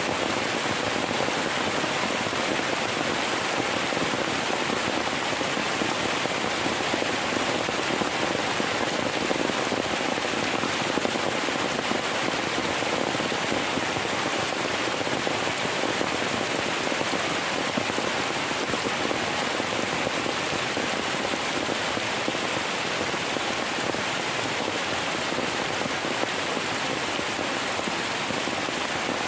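Heavy rain falling, a steady dense patter that stays even throughout.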